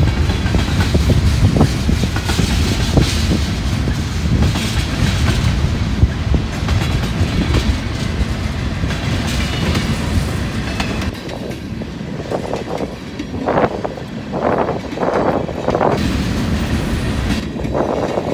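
Long mixed-manifest freight train rolling past, its car wheels clacking rhythmically over the rail joints over a steady low rumble. Several sharper clacks come close together in the last few seconds.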